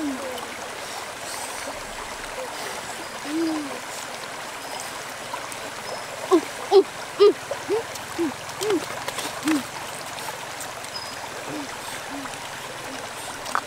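A string of short low hooting calls, about two a second, loudest at first and then fading, with a few more calls later. Under them is the steady rush of flowing river water.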